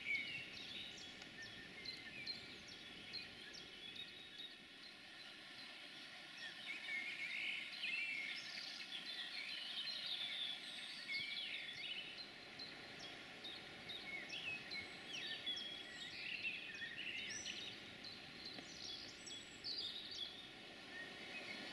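Songbirds chirping and singing, with many short high calls throughout, over a faint steady background hum of outdoor noise.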